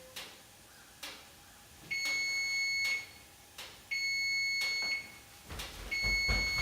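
Kitchen oven timer beeping three times, each a long, steady beep of about a second, two seconds apart, signalling that the cookies' baking time is up.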